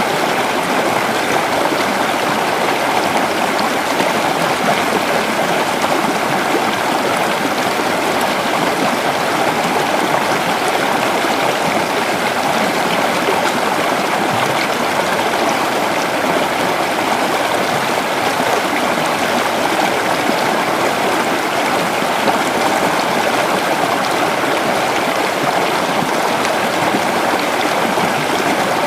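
Creek water flowing steadily over rocks, a constant rushing and babbling with no breaks.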